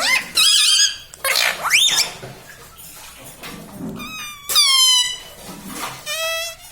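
Indian ringneck parrot giving a string of shrill, high-pitched calls and squawks. Some calls waver quickly in pitch, one long call falls away about four seconds in, and a fast trill comes near the end.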